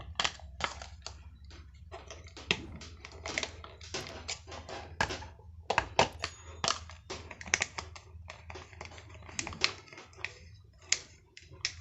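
Irregular small clicks and taps of plastic bulb-holder and shade fittings being handled and tightened by hand, over a low steady hum.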